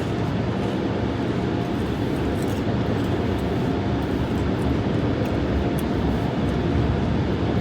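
Automatic car wash air-dryer blowers running with a steady, loud whoosh and low rumble, heard from inside the car as it creeps forward through the drying stage.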